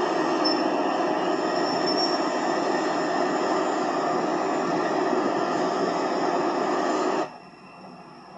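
A train moving through the station, a loud steady rumble with a faint high-pitched squeal during the first couple of seconds. It cuts off abruptly about seven seconds in, leaving a much quieter background.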